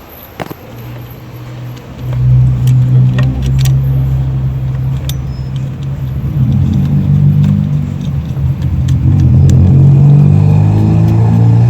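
A car engine running close by, getting much louder about two seconds in, its speed wavering slightly up and down; a sharp tool click comes just before.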